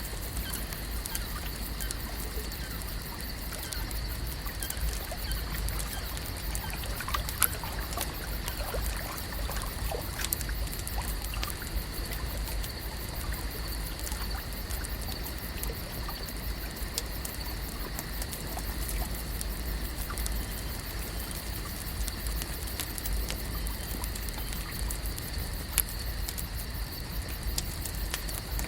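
Lakeside ambience: gentle trickling water with scattered small clicks and pops, a faint steady high whine and a low rumble underneath.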